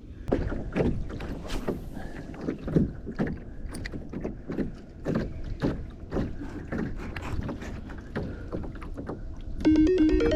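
Canoe on open water: repeated splashing and knocking, about two a second, with wind rumbling on the microphone. Synthesizer music comes in near the end.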